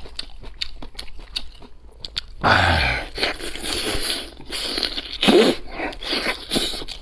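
Close-up eating sounds from a charcoal-roasted chicken drumstick with crisp skin: small wet clicks at first, then a loud crunchy bite about two and a half seconds in, followed by irregular chewing and crunching.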